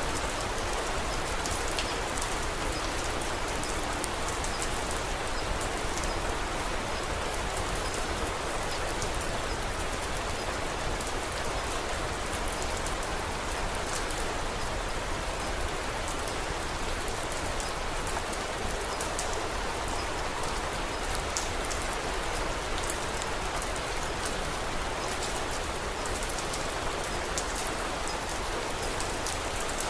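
Steady rain falling, with a scattered light crackle of a wood fire in a fireplace: a continuous even hiss dotted with sharp little ticks.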